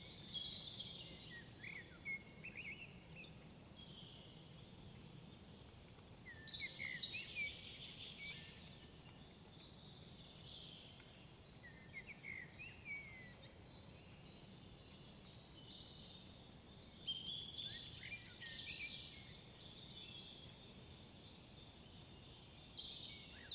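Songbirds singing in woodland: repeated song phrases of a couple of seconds each, about every five or six seconds, several ending in a high trill, over a faint low steady background rumble.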